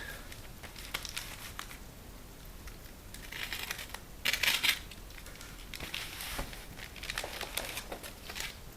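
Packaging crinkling and rustling as a motorcycle exhaust muffler is handled and unwrapped, with the loudest crinkle a little past four seconds in.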